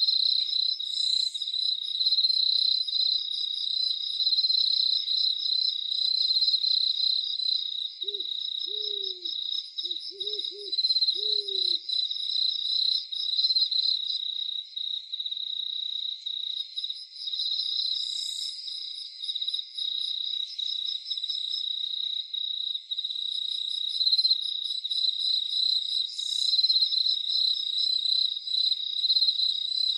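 Crickets chirping in a dense, steady, pulsing chorus, with a short run of about five low owl hoots, each rising and falling slightly, from about eight to twelve seconds in.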